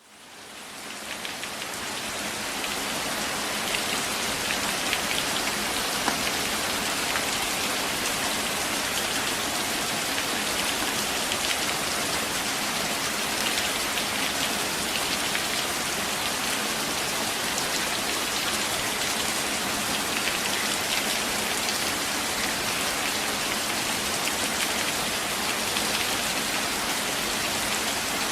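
Steady rainfall with a dense patter of fine drops, fading in over the first few seconds and then holding even.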